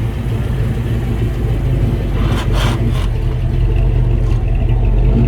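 Car engine running at low speed, a steady low rumble that grows slightly louder as the car rolls in. A brief hiss about two seconds in lasts under a second.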